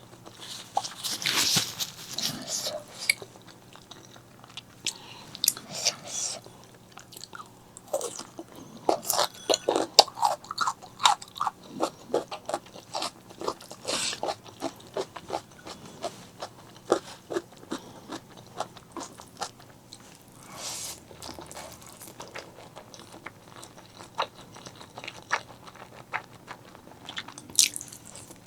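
Close-miked eating of spicy black bean noodles and fried eggs: rapid wet chewing, biting and smacking mouth clicks, with a few longer noisy bursts about a second in, about two-thirds of the way through and near the end.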